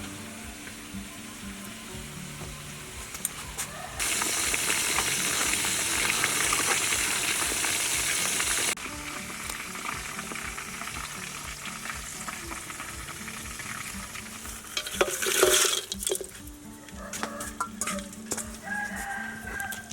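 Chicken frying in a pan, a steady sizzle with stirring, much louder from about four to nine seconds in, starting and stopping abruptly. A burst of clattering knocks comes about fifteen seconds in.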